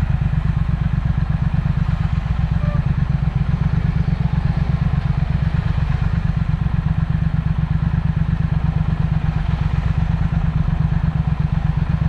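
Triumph Speed Twin parallel-twin engine running steadily through a Vance & Hines aftermarket exhaust, a deep, even beat with no revving.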